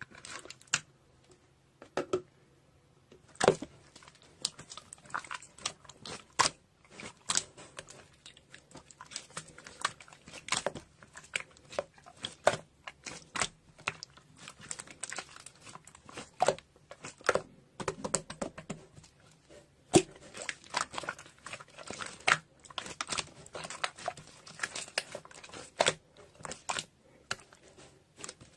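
Slime being squished and stretched by hand, giving a run of irregular sticky clicks, pops and crackles, several a second.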